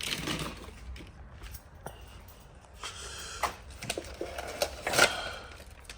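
Scattered knocks, clicks and rustling of boxes and gear being handled and moved about, with the sharpest knock about five seconds in.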